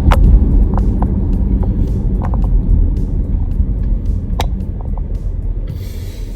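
Car cabin noise while driving: a steady low rumble from the engine and tyres, with a few light, irregular clicks and rattles.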